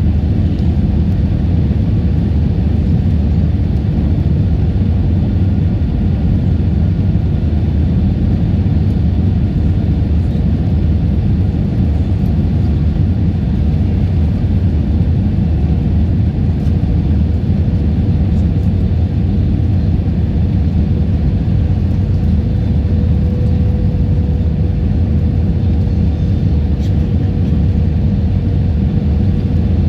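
Airbus A320 cabin noise: a steady low rumble of engines and airflow, with a faint steady hum above it. The sound stays level throughout, with no change in power.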